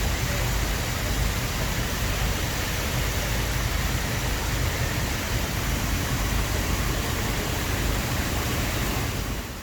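Water fountain splashing steadily, a continuous rushing hiss of falling water with a low rumble underneath.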